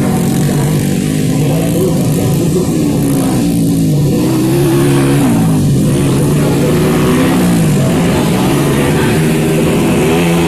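Dirt-bike engines racing on a grasstrack course, several motorcycles at once, their pitch rising and falling again and again as the riders open and close the throttle.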